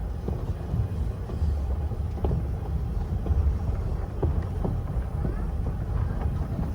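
Railroad passenger car rolling along the track: a steady low rumble with irregular clacks and knocks from the wheels and running gear.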